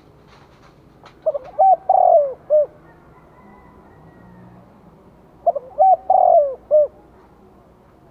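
Spotted dove cooing: two phrases of several coos each, about four seconds apart. This is the call that bird keepers play to lure wild doves.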